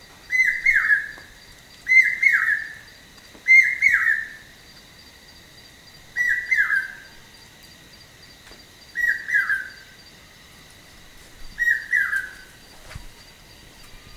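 A bird repeating a short call phrase of a few quick notes falling in pitch, six times, about every two seconds, with a longer pause partway through.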